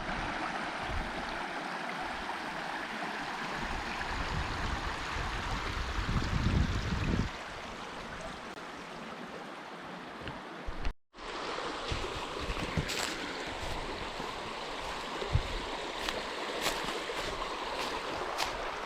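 Small stream running, a steady rush of water. A low rumble swells around six seconds in, and after a brief break near eleven seconds scattered light knocks and clicks sound over the water.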